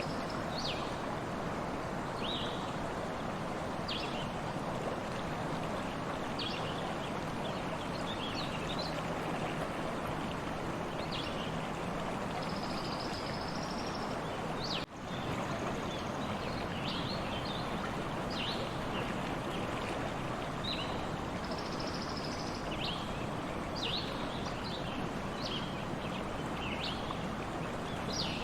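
Stream water running steadily, with small birds chirping now and then over it. The sound drops out briefly about halfway through.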